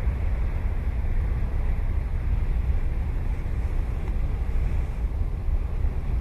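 Ocean surf washing steadily on a sandy beach, with wind buffeting the microphone and adding a deep rumble underneath.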